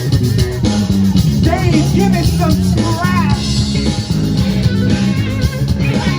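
Funk band music: a steady electric bass line under guitar, with a wavering, bending melodic part coming in about a second and a half in.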